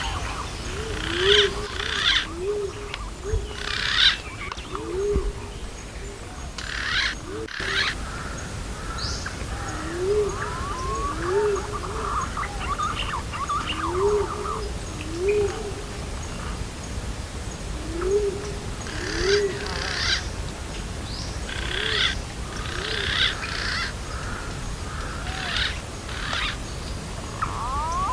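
Green pigeon (punai) calls: short, soft, low coos, mostly in pairs, repeating every second or two, with shorter high chirps from other birds between them.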